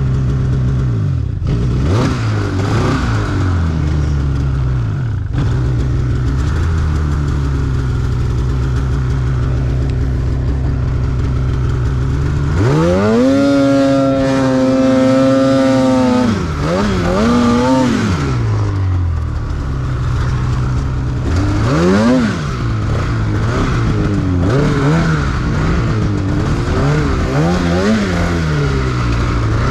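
Snowmobile engine running at a steady speed, then revving sharply about halfway through and holding high revs for about three seconds. It drops back and is then blipped up and down several times near the end.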